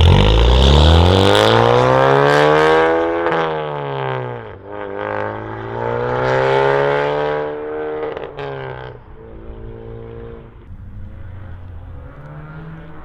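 Honda Civic Type R's turbocharged four-cylinder through a catless downpipe and Remus valved cat-back exhaust, valves fully open, accelerating hard: the revs climb, drop at an upshift about four seconds in, climb again, then the car fades into the distance.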